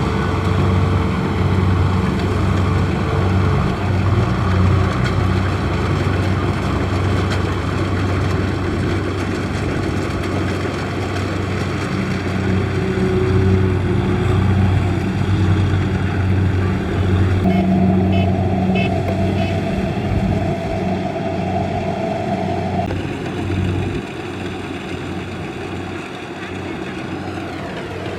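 Kubota DC-70 combine harvester's diesel engine running steadily under load with its threshing machinery, a steady low hum. A higher whine comes in past the middle for about five seconds, and the sound drops somewhat quieter near the end.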